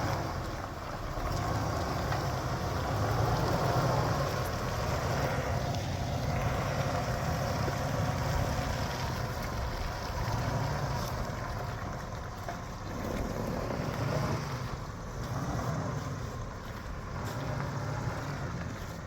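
Old GMC Z71 pickup truck's engine running as it is driven off-road, swelling and easing off several times with the throttle.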